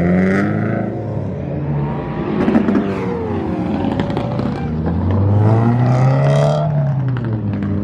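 Car engines revving and accelerating past, their pitch rising and falling; one engine climbs and drops away about five seconds in.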